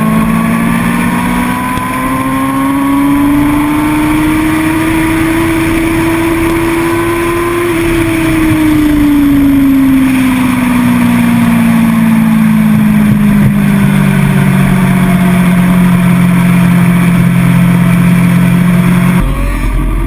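A vehicle's engine under way. Its note climbs steadily for about eight seconds as it accelerates, then eases down and holds steady over road and wind noise. Near the end the sound changes abruptly to a lower rumble.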